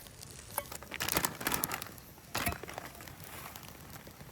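Handling of camp cooking gear: rustling and crinkling with scattered sharp clicks, busiest about a second in, and one sharper knock about two and a half seconds in.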